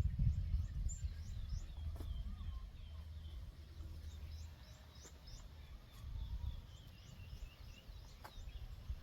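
Birds calling outdoors, a steady run of short, high, downward-sliding chirps repeated several times a second, over a low rumble with a few faint clicks.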